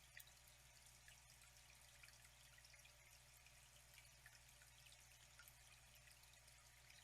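Faint flowing water trickling and pouring steadily, with many small drips and splashes.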